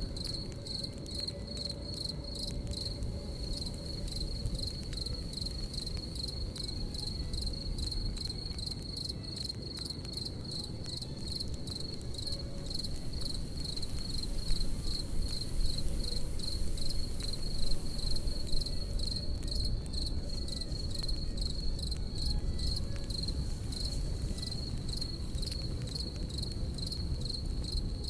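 Crickets chirping in a steady, even pulse, over the low rumble of a campfire with scattered crackles, a few louder pops in the middle.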